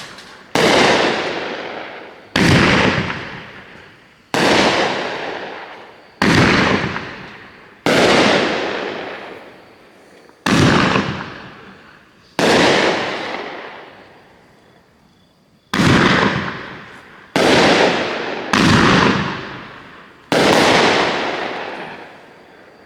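A 500 g consumer fireworks cake firing its shots one at a time, about eleven in all, each a sharp bang that fades out over a second or two. The shots come irregularly, one to three seconds apart, with a pair close together near the end.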